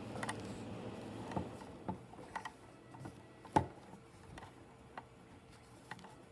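Scattered small clicks and taps of a manual screwdriver working at a screw in a metal power-supply case, with one sharper tap about three and a half seconds in.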